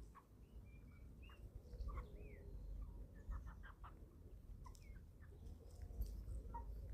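Eleven-week-old chicks giving soft, scattered peeps and short chirps while feeding, with a few sharp clicks in the middle.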